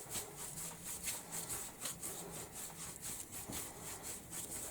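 Paintbrush dry-brushing paint onto a wooden chopping board: faint scrubbing of bristles on wood at about three or four strokes a second.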